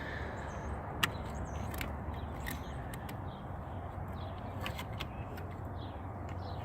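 A few faint, light clicks of hand tools on metal parts over a steady low background hum.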